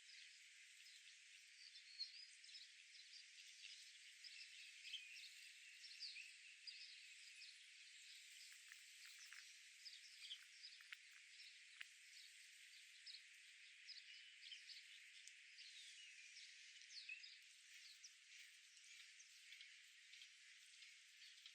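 Faint, dense chatter of many small birds chirping: short, quick chirps overlapping throughout, over a steady high hiss.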